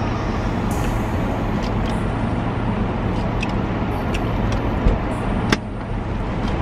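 Steady running noise of an idling vehicle, heard inside its cabin as a constant low hum with a hiss over it. Two short clicks come about five seconds in.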